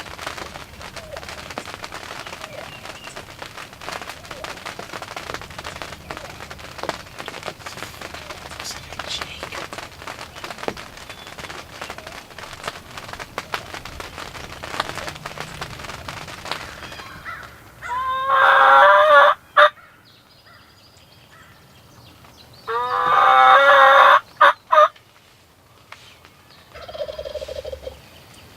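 Wild turkey tom gobbling: two loud, rattling gobbles about four seconds apart, the first about eighteen seconds in, and a fainter short call near the end. Before them there is only a steady background hiss.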